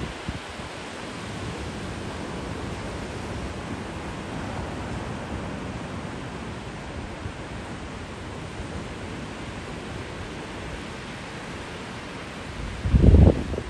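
Steady rushing noise of ocean surf and wind at the beach. A loud low burst about a second before the end, like wind buffeting the microphone.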